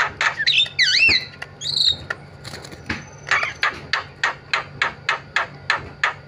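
Javan myna calling: wavering whistled notes mixed with harsh notes in the first two seconds, then a steady run of short harsh notes, about three a second.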